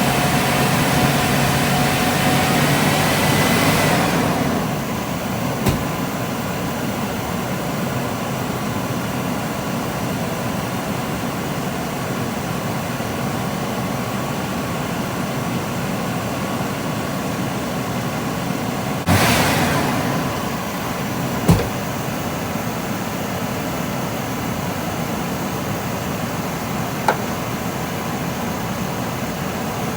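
Chevrolet Astro's 4.3-litre V6 idling with the air conditioning running, a steady drone. It runs louder, with a faint rising whine, for the first four seconds, then settles. A short hiss comes about two-thirds of the way through, and there are a few sharp clicks.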